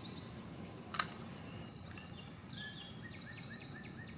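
Quiet background hiss with a single sharp click about a second in, then a run of short, quick bird chirps repeating several times a second.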